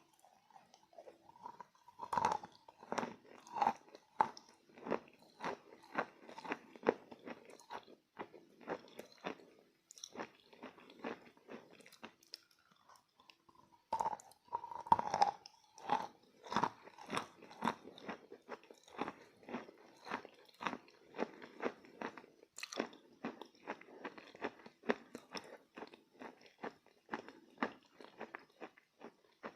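Edible chalk being bitten and chewed close to the microphone: a crunchy bite about two seconds in and another about fourteen seconds in, each followed by a long run of quick chewing crunches.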